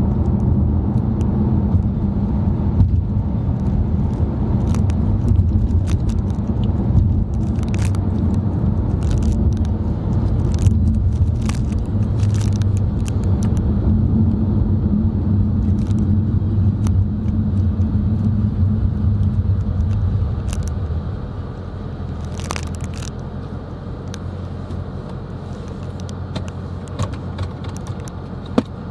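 Steady engine and road rumble heard from inside a moving car, with scattered sharp clicks. About two-thirds of the way through the rumble eases and gets quieter as the car slows.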